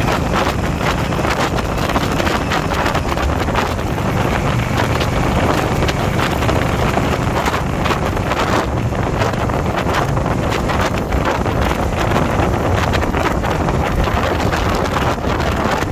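Heavy wind noise on the microphone of a moving motorcycle, steady throughout, with the bike's engine running evenly beneath it at cruising speed.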